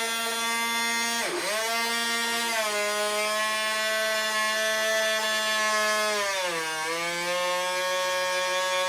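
Small electric gear motors of a 1:12 scale radio-controlled toy excavator whining steadily, cutting out for a moment about a second in, then dropping in pitch twice as the motor slows, which the owner takes for a dying battery.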